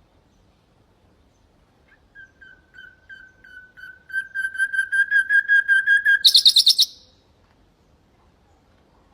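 Common nightingale singing one phrase: a run of repeated clear whistled notes that swell from soft to loud, about four or five a second, ending in a short loud, fast trill at a higher pitch.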